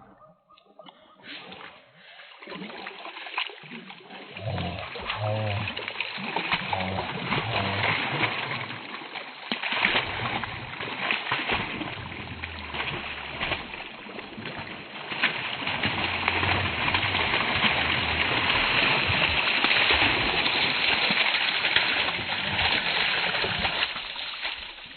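Dogs splashing through water, a steady noisy sloshing that builds up a few seconds in, with a low rumble underneath at times.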